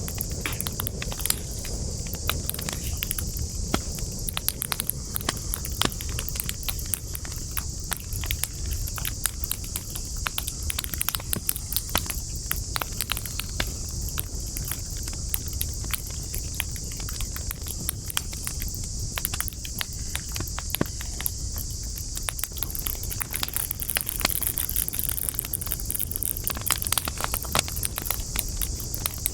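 Wood campfire burning, crackling with many irregular sharp pops over a low rumble of flames. A steady high-pitched hiss runs underneath throughout.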